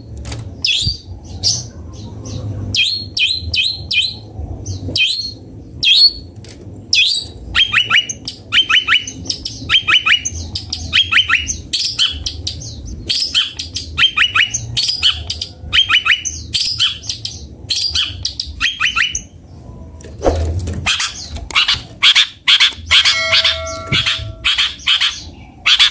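Long-tailed shrike (cendet) singing: a rapid run of short sharp chirps, then a long series of downward-slurred notes about twice a second, turning to faster, harsher notes near the end.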